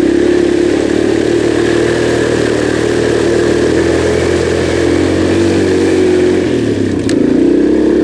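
Kawasaki KLX140G dirt bike's single-cylinder four-stroke engine running steadily at low speed, dipping briefly about six and a half seconds in, with a sharp click about seven seconds in.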